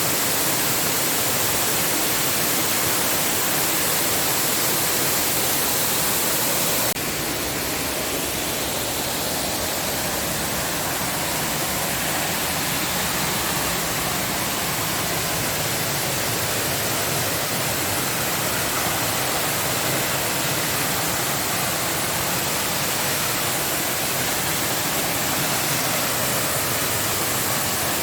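Waterfall rushing: a loud, steady roar of falling water. About seven seconds in, the sound drops a little and its tone shifts abruptly.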